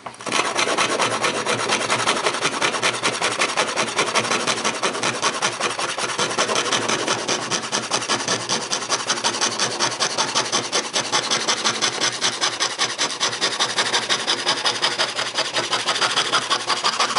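Antique foot-pedal-powered scroll saw cutting wood: the reciprocating blade rasps through the board in a fast, even rhythm of about four to five strokes a second.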